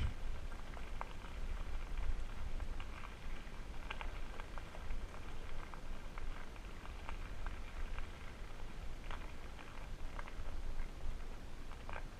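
E-bike riding noise on an off-road trail: a steady low rumble of wind on the microphone with scattered light ticks and crackles, like tyres rolling over gravel and small parts rattling.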